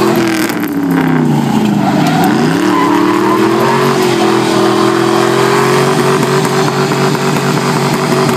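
Pickup truck engine revving hard under load while pulling against another truck, its pitch sagging about two seconds in, then climbing back and holding high and steady.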